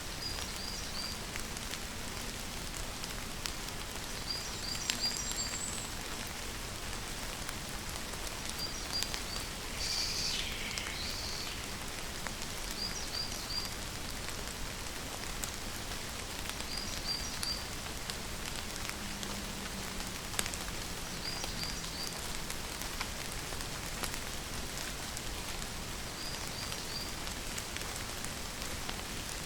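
Steady rain falling. Over it, a bird repeats a short, high three-note chirp every few seconds, and gives one louder, falling call about ten seconds in.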